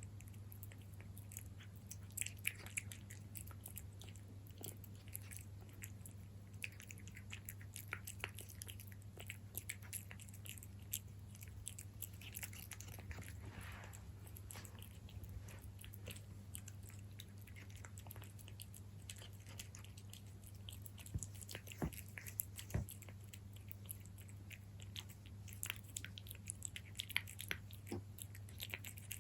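A cat chewing its food up close: irregular small wet clicks and smacks of its mouth, now and then louder, with short pauses between mouthfuls.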